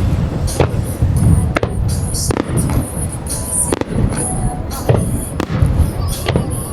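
Fireworks shells bursting one after another: irregular sharp bangs, several a second at times, over a continuous low rumble of explosions and their echoes.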